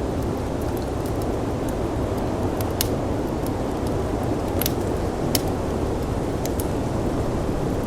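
Steady rushing of snowstorm wind, with a wood fire in a firepit crackling over it in scattered sharp pops.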